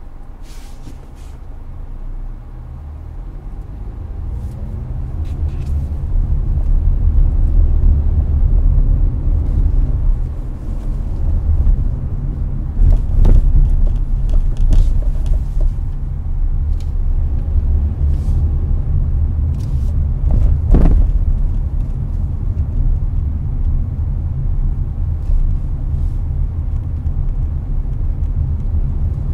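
Hyundai Avante cabin at highway speed: steady low road and engine rumble with air-conditioner fan noise. The rumble grows louder over the first several seconds, with two short knocks about 13 and 21 seconds in.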